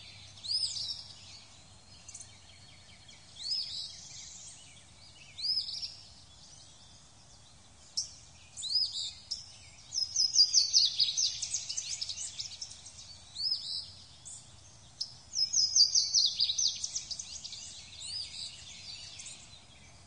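Birdsong of unknown species. Single high chirps sweep up in pitch every couple of seconds, then come two rapid runs of many quick notes, about ten seconds in and again near fifteen seconds in, over a faint steady background hum.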